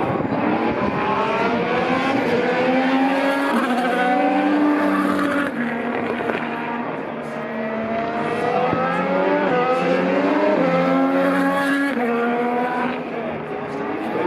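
Formula 1 cars' 1.6-litre turbocharged V6 hybrid engines accelerating past, their pitch climbing and dropping back again and again as they upshift, with several cars overlapping.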